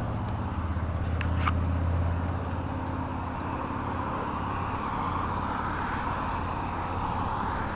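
Road traffic passing: a vehicle's steady engine hum with tyre noise that swells and holds.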